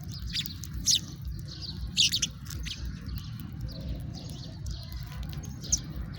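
House sparrows chirping: short, sharp chirps scattered through, with the loudest ones just under a second in and a cluster about two seconds in, over a steady low rumble.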